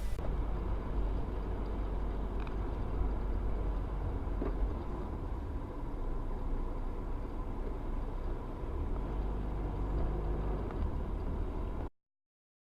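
Steady low rumble of a car driving, engine and road noise as picked up by a dash cam inside the car. It cuts off abruptly into silence near the end.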